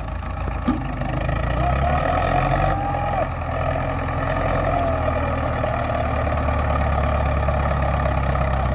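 Tractor diesel engine running, getting louder about a second in and then holding steady, with a faint wavering higher tone over it.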